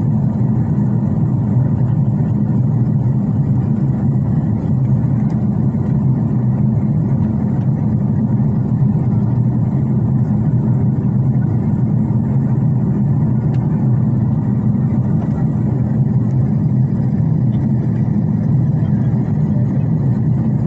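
Airliner cabin noise on descent toward landing: a steady, low hum of engines and rushing air that stays even throughout.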